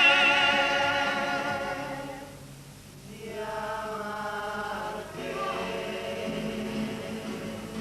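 Carnival comparsa choir holding the last sung chord of a phrase with vibrato, fading away over about two seconds. About three seconds in, a quieter passage of choral singing begins.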